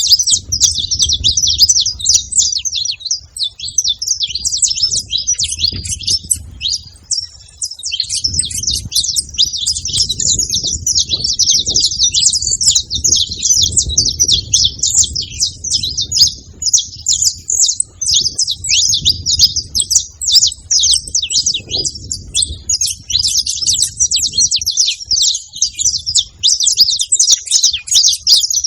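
Several saffron finches chirping and singing together in a dense, continuous chatter of quick, high chirps.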